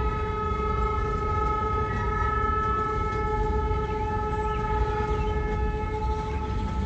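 Diesel locomotive's air horn sounding one long held blast that stops near the end, over the steady low rumble of the locomotive and train.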